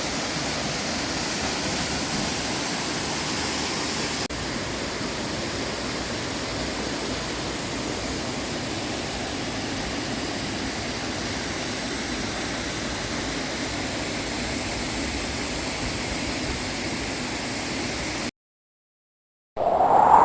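Steady rush of a waterfall, a full even roar of falling water, with a slight step down in level about four seconds in. Near the end it cuts off to a moment of silence, and then a louder, different sound begins.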